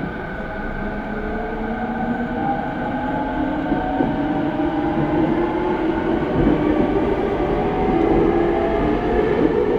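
Rinkai Line TWR 70-000 series electric train running, its traction motor whine rising steadily in pitch and growing louder over the rumble of the wheels as the train picks up speed.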